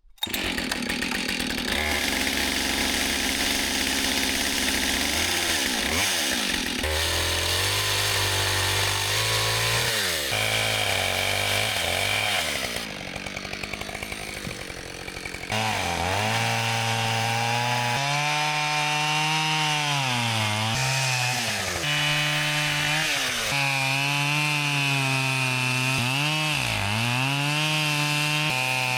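Two-stroke chainsaw cutting downed trees into firewood. The engine runs at high revs and its pitch sags again and again as the chain bites into the wood, recovering between cuts, with a quieter stretch about halfway through.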